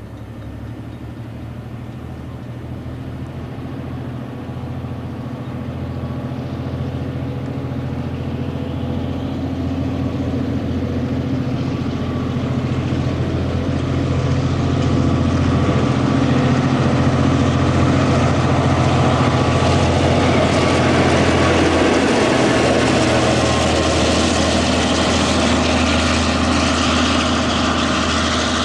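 Diesel locomotive engine running with a steady low drone, growing louder as it draws nearer over about fifteen seconds, then holding loud; the engine note changes briefly about 22 seconds in.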